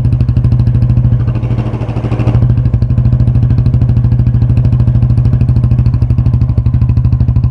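Yamaha Fazer 250's single-cylinder four-stroke engine running unevenly at idle. About two seconds in, its note sags briefly and then picks up again. The running is unstable, a sign that the engine is completely out of tune.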